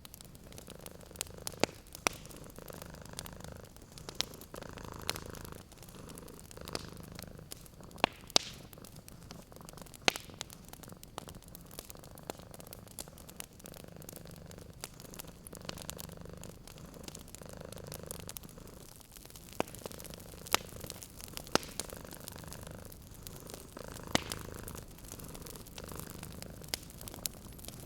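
Domestic cat purring, the purr swelling and fading about every two seconds with its breaths, over a fireplace fire crackling with frequent sharp pops.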